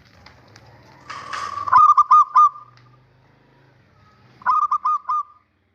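Male zebra dove (perkutut) calling: two short phrases of quick, clipped cooing notes, the second about two and a half seconds after the first. A brief rush of noise comes just before the first phrase.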